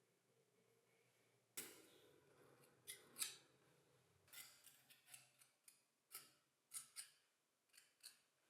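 Faint scissors snipping: about a dozen short, irregular cuts starting about a second and a half in, typical of cutting out a rubber part by hand.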